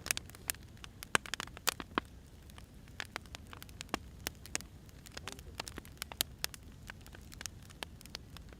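Wood fire crackling: irregular sharp pops and snaps from burning firewood over a soft low rumble.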